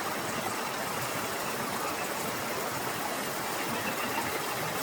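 Steady heavy rain falling, an even rushing noise with no breaks.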